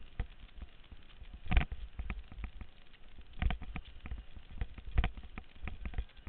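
Muffled whitewater and irregular knocks and thumps, as water and paddles strike around a helmet camera in its waterproof housing while a raft surfs a rapid; three heavier thumps stand out, near the start, the middle and toward the end.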